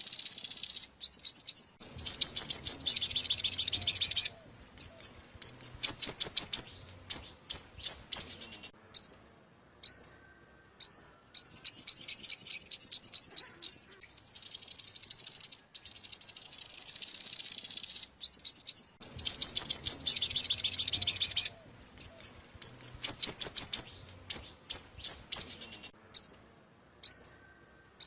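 Sunbird song, the bird known in Vietnamese as the five-coloured sunbird: high, rapid twittering trills and runs of short, sharp notes in bursts of a few seconds with brief gaps between them. The same phrases come round again, as in a looped lure recording.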